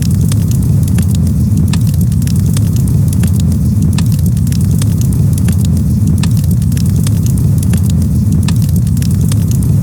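Campfire crackling, with many irregular sharp pops and snaps over a steady low rumble.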